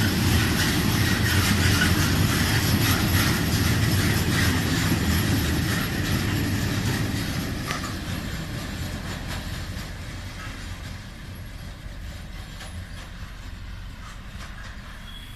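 Heavy freight train of loaded steel-slab wagons rolling past, wheels clicking over the rail joints with some wheel squeal, then fading steadily away over the second half.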